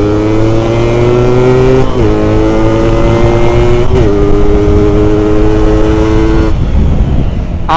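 Yamaha RX-King's two-stroke single-cylinder engine pulling hard through the gears: its pitch climbs, dips briefly at upshifts about two and four seconds in, holds steady, then eases off near the end.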